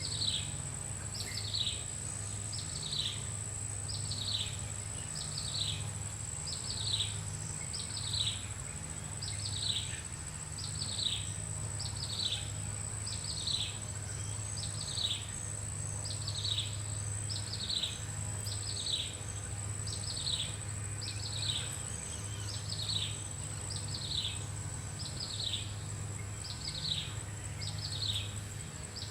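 A bird repeating a single falling call note about once a second, over a steady high-pitched insect whine and a low background hum.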